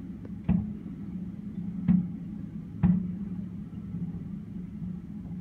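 Distant fireworks shells bursting with three separate bangs, about half a second, two seconds and three seconds in, each trailing off briefly, over a steady low rumble.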